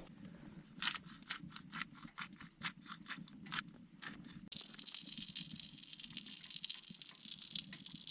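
Steak and vegetables sizzling in a hot pan, the hiss starting abruptly about halfway through. Before it, a quick run of evenly spaced rattling strokes, about four a second.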